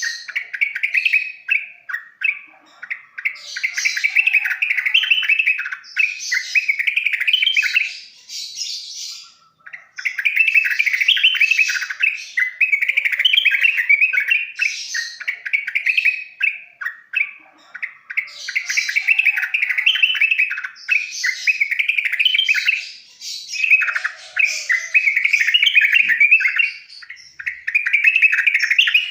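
Yellow-vented bulbul (trucukan) singing: repeated bubbly phrases of quick chattering notes, each lasting a couple of seconds with brief pauses between.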